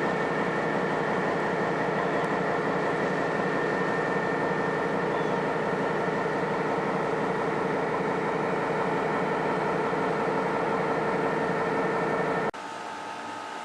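GE U23B diesel-electric locomotive, with its 12-cylinder FDL engine, running steadily, with a steady whine over the engine's noise. Near the end it cuts off suddenly to a much quieter steady hum.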